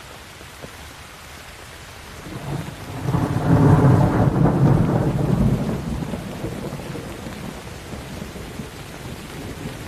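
Steady rain falling, with a roll of thunder that builds about two seconds in, peaks a second or two later and slowly rumbles away.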